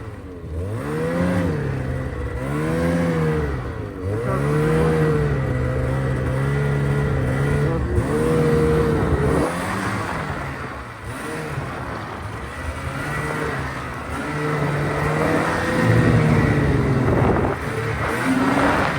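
A vehicle engine revving up and down over and over, its pitch rising and falling every second or two as the throttle opens and closes, with a steadier stretch in the middle.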